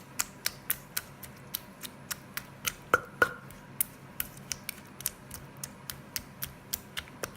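Pestle knocking steadily in a mortar, about three or four strikes a second, as beans and chilli paste are pounded and mixed for som tam; two strikes about three seconds in are louder and ring briefly.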